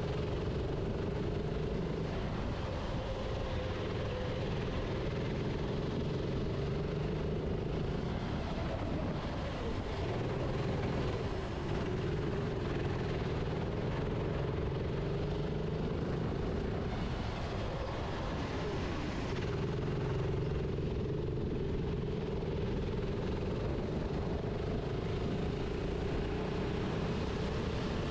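Kart engine heard onboard, running hard at a steady pitch down the straights. Twice the pitch falls and climbs back again as the driver lifts for a corner and accelerates out.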